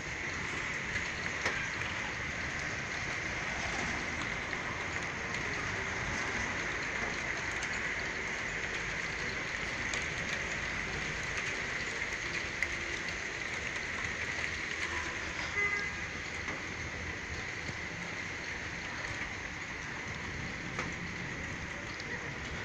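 Steady rain falling, with a few sharp ticks of drops striking nearby surfaces.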